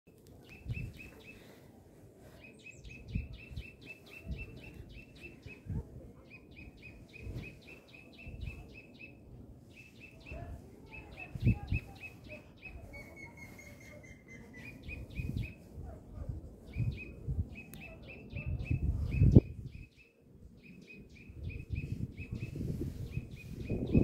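A small bird calling in quick runs of short, high chirps, each run a second or two long, repeated again and again. Low thumps and rumbling, likely wind or handling on the microphone, sound underneath, with the loudest bump a little after halfway and more rumble near the end.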